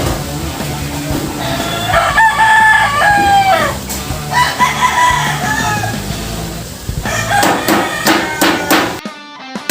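A rooster crowing twice, each crow held and then falling away at the end, over background music. Near the end comes a quick run of sharp knocks.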